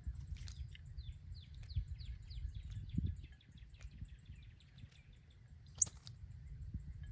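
Small birds chirping: a quick run of falling chirps for the first few seconds, then one sharp high call near the end. Under it runs a steady high-pitched ticking and a low rumble.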